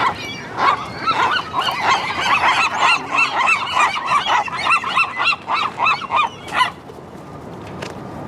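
Seagulls calling: a fast run of short repeated calls, several birds overlapping, that stops near the end.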